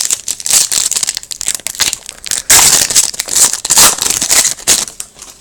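Foil wrapper of a hockey card pack being torn open and crinkled by hand, loud rustling crackles that grow heavier about halfway through.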